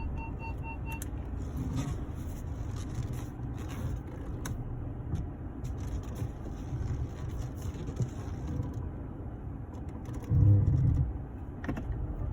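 Audi A6 C7 steering rack creaking, heard from inside the cabin over the car's low running rumble, with scattered creaks and clicks. A louder low groan comes about ten seconds in. A car's parking-sensor beeping stops about a second in.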